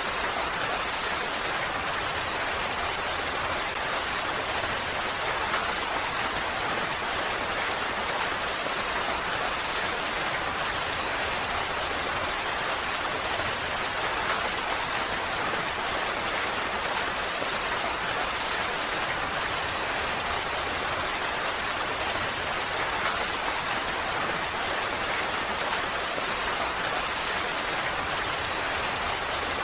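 Steady rain falling, an even hiss of rain on surfaces with faint scattered drop ticks.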